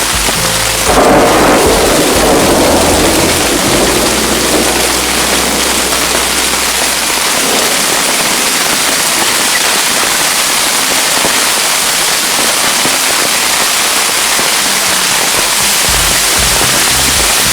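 Steady heavy rain hiss, with a thunderclap about a second in that rumbles away over the next few seconds.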